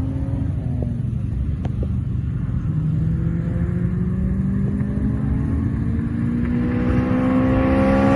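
A car engine accelerates, its note rising steadily in pitch and growing louder over the last few seconds, over a steadier engine note underneath.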